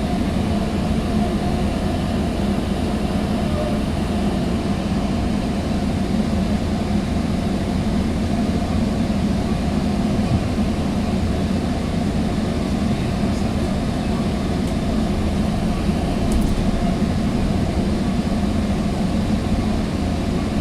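Steady rumble of ride noise inside a Sounder commuter train's bilevel passenger coach as the train runs along the track.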